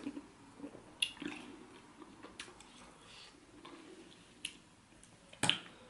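Close-up eating sounds: wet chewing and mouth smacks from a person eating catfish pepper soup and yam, with a few sharp clicks, the loudest shortly before the end.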